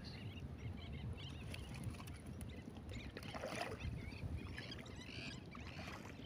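Scattered short chirping calls of birds over a low, fluttering rumble, with a brief rustle about three and a half seconds in.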